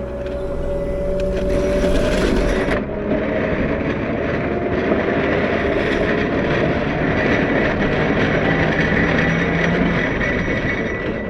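CAT 908 compact wheel loader's diesel engine running steadily under load while plowing snow, with a high steady whine joining in the second half.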